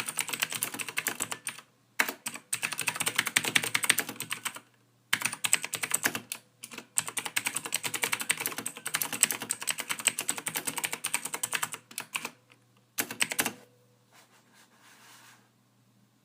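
Fast typing on a computer keyboard: dense runs of key clicks in bursts of a few seconds with short pauses between them. The typing stops a little past three-quarters of the way through.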